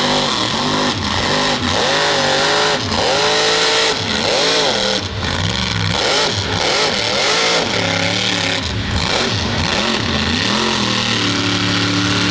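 Mud truck engine revving hard, its pitch rising and falling again and again over a steady rumble.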